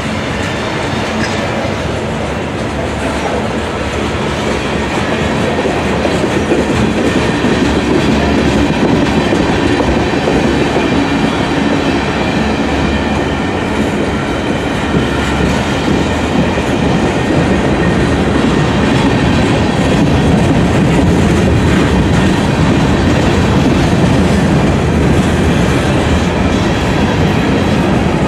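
Freight train cars (gondolas, covered hoppers and tank cars) rolling past on the near track: steel wheels on rail making a loud, steady rumble, a little louder after the first few seconds.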